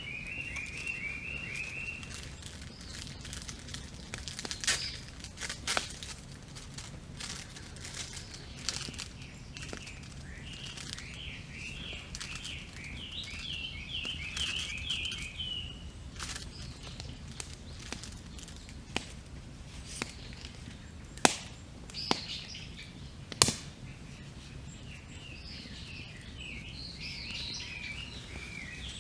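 Small birds singing in fast runs of repeated notes, in three spells, over a wood campfire burning with a low steady rush. The fire gives a few sharp crackles and pops, the loudest three close together a little past two-thirds of the way through.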